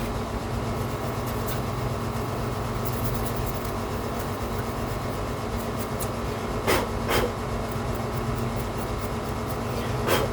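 Steady machine hum in the room, like a fan or air conditioner. Over it come a few faint ticks and brief scratchy strokes, most clearly twice about two-thirds of the way in and once near the end, as a small brush dusts off a DVD drive.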